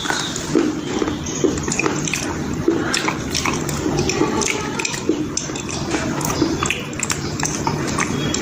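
Close-up chewing and crunching of slate pencils eaten with a paste: irregular sharp crunches over a steady wet, noisy background.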